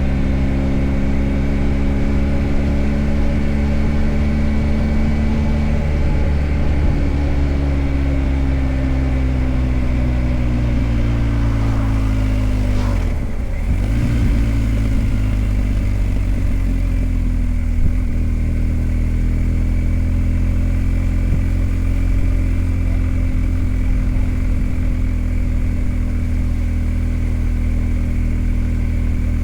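BMW R 1250 GS Adventure's boxer-twin engine running while ridden, its pitch sinking slowly, dipping briefly about thirteen seconds in, then holding steady.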